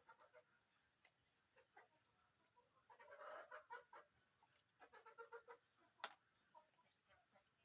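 Faint animal calls in two short bouts, about three and five seconds in, among scattered faint clicks, with one sharper click about six seconds in.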